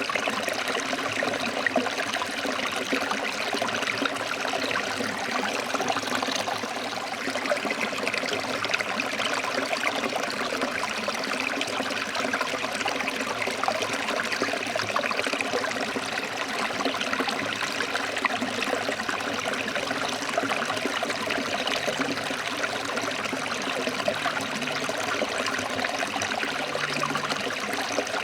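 Forest stream flowing and splashing over rocks, a steady rushing and burbling of water.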